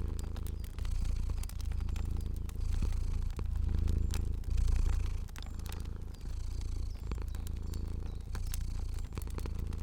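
A cat purring steadily, the low purr swelling and easing with each breath about once a second. Scattered sharp crackles of a wood fire sound over it.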